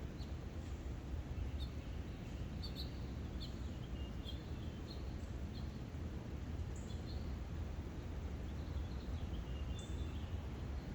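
Small songbirds chirping in short, scattered notes over a steady low background rumble and hiss, most in the first half and again near the end.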